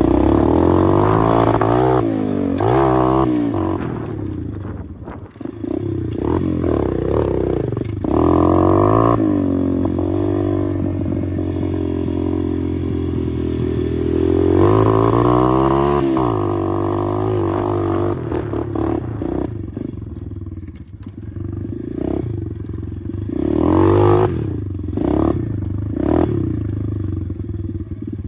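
A 125cc pit bike's engine running under way, revving up and easing off again and again as the rider works the throttle, its pitch climbing several times and dropping back.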